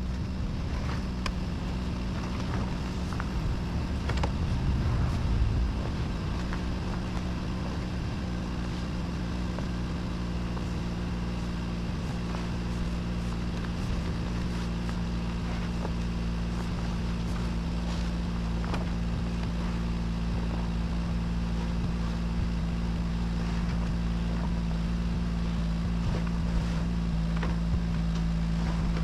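An engine running steadily, with a constant low drone and scattered light clicks and knocks.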